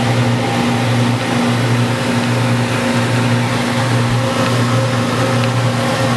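Commercial refrigerator's refrigeration unit running with a steady, loud low hum while it is being charged with Freon.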